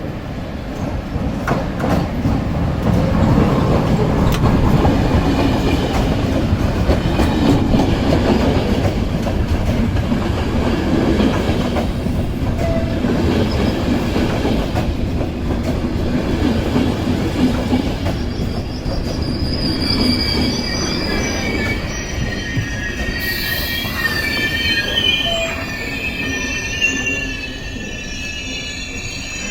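Passenger train hauled by a ZSSK Class 383 (Siemens Vectron) electric locomotive rolling into the station: a steady, loud rumble and rattle of wheels over the rails. From about two-thirds of the way through, high squealing from wheels and brakes comes in as the train slows to a stop.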